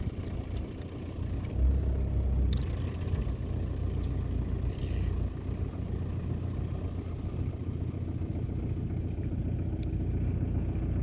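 Motor vehicle engine running with a steady low rumble that grows louder about a second and a half in, with a few light clicks and rattles over it.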